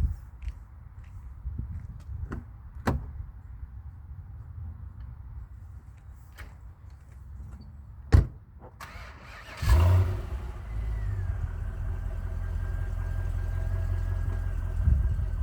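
Volvo S80's 4.4-litre V8 started, heard from outside the car: scattered clicks and a sharp thump about eight seconds in, then just under ten seconds in the engine catches with a brief loud flare and settles into a steady idle.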